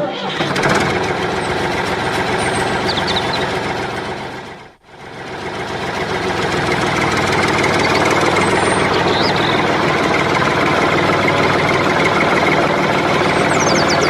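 A small engine running steadily with a dense rattle, fading out briefly about five seconds in and coming back up.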